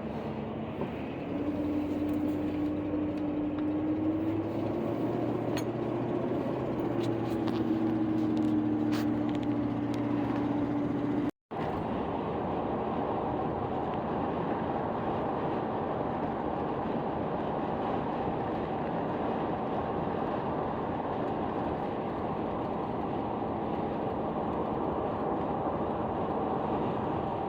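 Vehicle driving on the road. For the first ten seconds or so an engine hum rises and falls gently in pitch, then after a brief cut there is a steady road noise.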